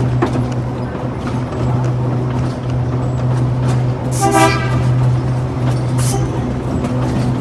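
Tourist tram's horn giving one short toot about four seconds in, over a steady low hum from the moving tram.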